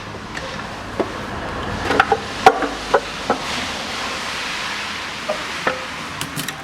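Hand tools and loosened valve-cover bolts clinking against metal as the bolts come out of the engine's valve cover: a quick run of sharp metallic clinks with a short ring about a second in, then a few more clinks near the end.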